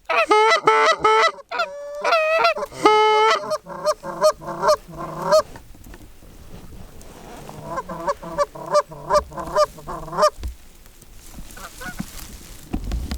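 Canada goose honking and clucking in quick runs of loud, sharp notes that break in pitch, with a pause in the middle.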